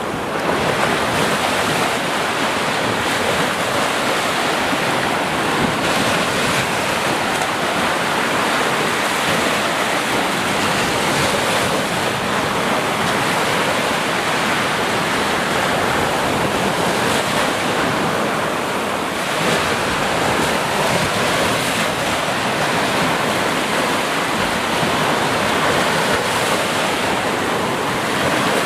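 Sea waves washing on the shore: a continuous, steady rush of surf.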